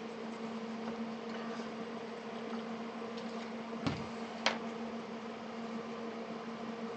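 A steady hum with two sharp clicks or taps about half a second apart near the middle.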